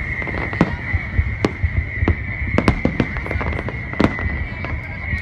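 Fireworks going off: a rapid, irregular run of sharp bangs and crackles, several a second, over a steady high-pitched tone.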